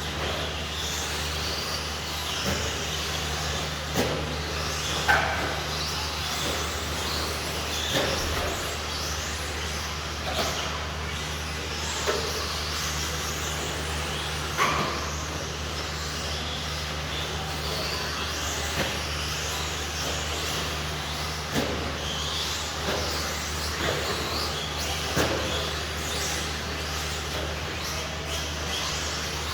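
Radio-controlled stadium trucks racing: their motors make short, high-pitched whines that rise and fall as they accelerate and brake, with sharp clacks from trucks landing or hitting each other, over a steady low hum.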